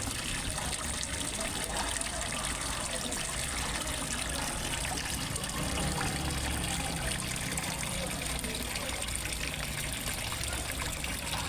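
Small waterfall splashing and trickling steadily into a fish pond.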